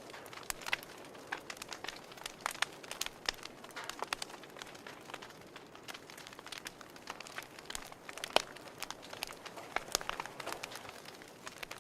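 Campfire crackling: irregular sharp pops and snaps, several a second, over a soft steady hiss.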